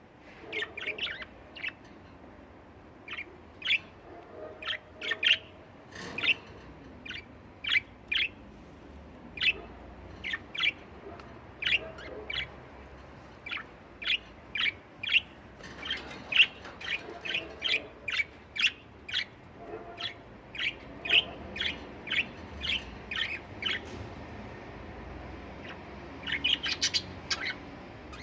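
Pet budgerigars chirping: short, sharp chirps repeated every half second or so, with quick runs of chirps near the start and near the end.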